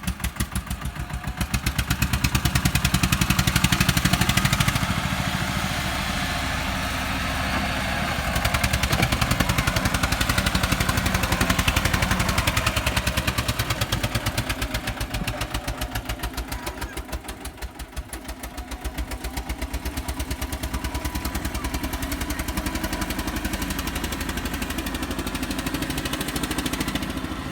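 Eicher 241 tractor's single-cylinder diesel engine running under load with an even, rapid beat, growing louder and softer several times.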